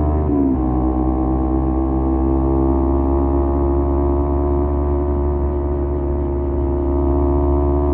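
Kawasaki Z250 parallel-twin engine through an aftermarket SeaPro muffler, cruising at steady revs. The engine pitch drops about half a second in, then holds steady.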